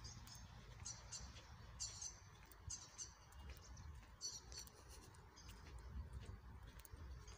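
Faint small-bird chirps outdoors: short high calls come several times, about a second in, near two and three seconds, and past four seconds, over a faint low rumble.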